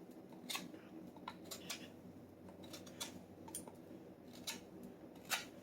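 A knife whittling a wooden hammer handle: short, irregular scraping strokes of the blade shaving wood, about two a second.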